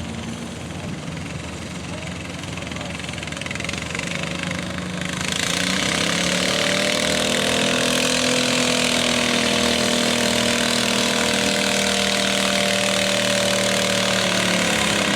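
Engine running, rising sharply in loudness and revs about five seconds in, then held steady at high revs under a loud, even note.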